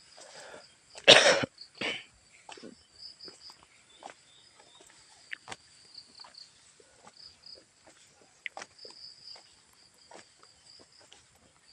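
A person coughing hard about a second in, with a shorter cough just after, then scattered light footsteps on the path. Insects chirp steadily in the background.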